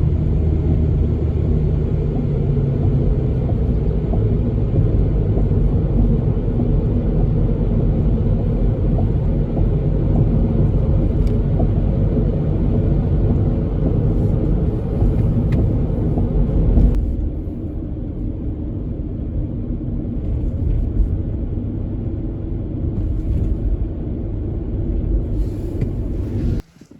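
A car driving: a steady engine and road rumble. It drops quieter about seventeen seconds in and cuts off abruptly near the end.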